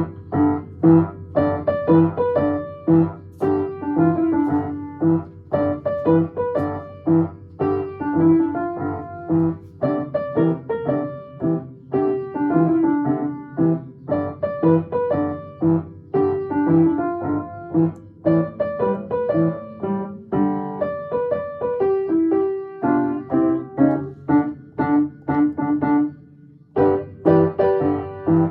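Piano playing a blues piece, a steady stream of struck notes over a repeating bass, with a short break about two seconds before the end.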